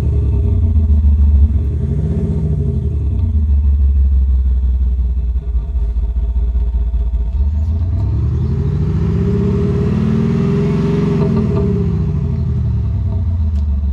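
Land Rover Defender D250 diesel with a Sound Architect exhaust and added speaker system, giving a burbly tone as it is revved. It idles between two short blips of the throttle near the start, then about halfway through it revs up for a few seconds and falls back to idle.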